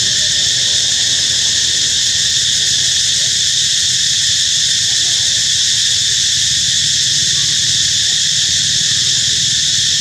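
Loud, steady chorus of insects: an unbroken high-pitched buzz, with a few faint short chirps underneath.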